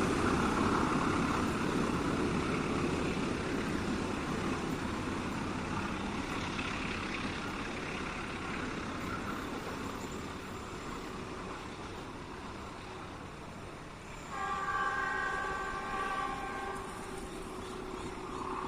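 A passing train's rumble fading away, then a locomotive horn sounds one long blast of several tones at once, about fourteen seconds in, lasting nearly three seconds.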